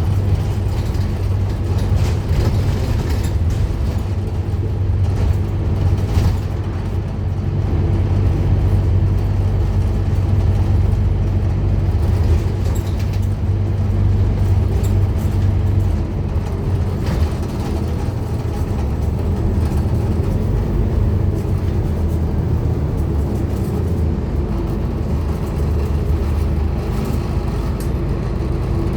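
Scania N230UD Omnicity double-decker bus with its five-cylinder diesel running steadily under way. The engine note shifts about halfway through, with a few light knocks and rattles along the way.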